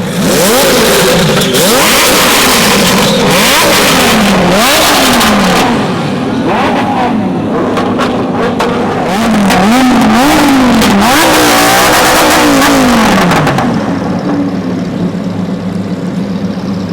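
A sports car engine being free-revved while parked, blipped up over and over and falling back between blips. Near the end the revving stops and the engine settles to a steady idle.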